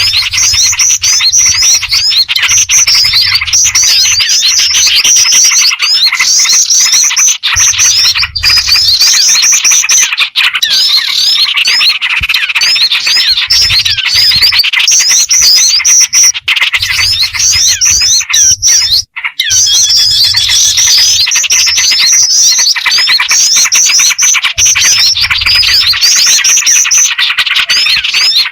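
Bird-lure recording: a loud, dense, unbroken chorus of small songbirds chirping and calling fast and high, mixing black-winged flycatcher-shrike (jingjing batu) calls with small-bird and yellow-vented bulbul (trucukan) calls.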